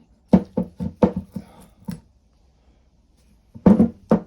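Short knocks and clatter of a brake caliper and hand tools being handled: a quick run of knocks in the first two seconds, then a pause, then two louder knocks near the end.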